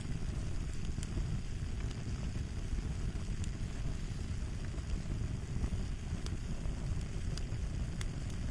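Fire crackling: a steady low rumble of burning with scattered sharp pops and crackles.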